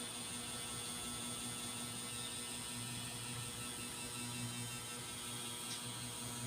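Steady electrical hum with a faint high-pitched whine and hiss, unchanging throughout.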